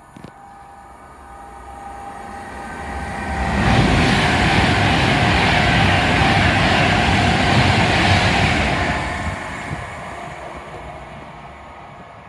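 Class 390 Pendolino electric train passing the platform. The rush of the train builds over a couple of seconds, stays loud for about five seconds as the carriages go by, then fades away.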